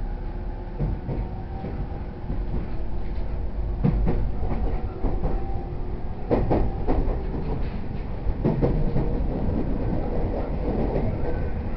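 E231-series commuter train running along the line, heard from inside the passenger car: a steady rumble of wheels on rail with faint steady motor tones, and several clusters of clickety-clack as the wheels cross rail joints.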